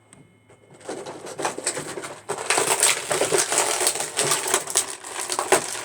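Plastic Lego packaging crinkling and rustling as it is handled, with small hard plastic pieces clicking against each other. It starts faintly about a second in and gets louder after about two seconds.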